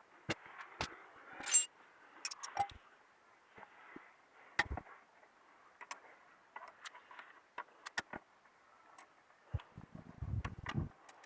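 Scattered clicks, clinks and knocks of hard objects being handled, with a metallic jingle about one and a half seconds in and a few dull thumps near the end.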